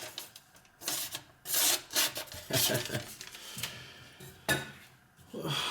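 Kitchen knife blade scraping across a wet Spyderco medium aluminium-oxide bench stone in several separate sharpening strokes, spaced about a second apart.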